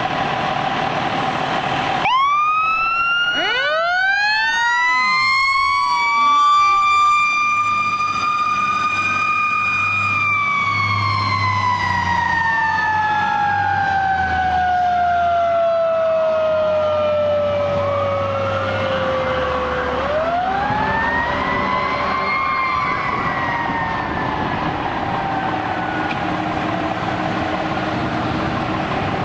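Federal Signal STH10 fire station siren sounding. It winds up about two seconds in to a held wail, slowly winds down, then winds up again briefly near the end and falls away.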